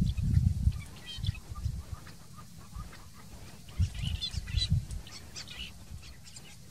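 Birds calling in short, high chirps and twitters, busiest about four to five seconds in, over louder low thumping rumbles.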